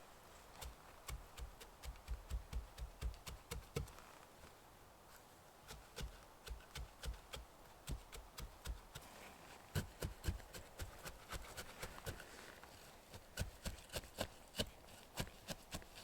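Quick runs of dull knocks and taps, several a second, with short pauses between the runs.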